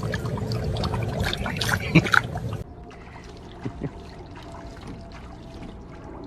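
Water splashing and trickling, with sharp knocks. About two and a half seconds in it cuts to a quieter sound with a faint steady tone and a few light knocks.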